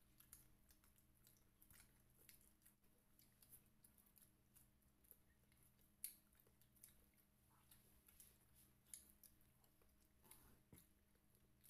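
Faint chewing and the small crackling clicks of fingers pulling apart breaded fried chicken, with one sharper click about six seconds in, over a faint steady hum.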